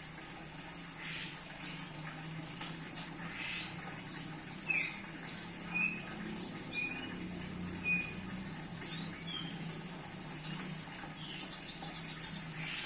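Red siskin giving scattered short chirps and squeaky call notes, with a few brief level whistled notes around the middle, over a steady low hum.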